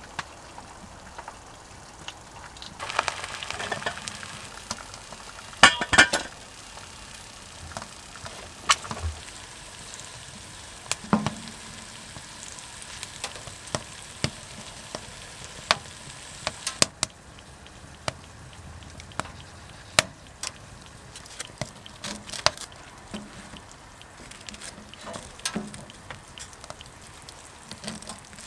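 Eggs frying in a pan on a wood stove: steady sizzling, broken by scattered sharp clicks and knocks, the loudest about six seconds in.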